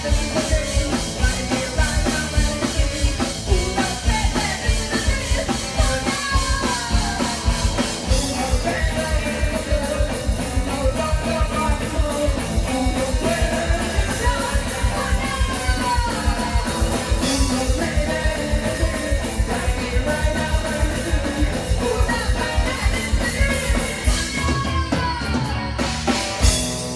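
Live rock band playing: steady drum kit beat under singing and melodic instrument lines. The song ends on a loud final hit near the end, leaving a ringing decay.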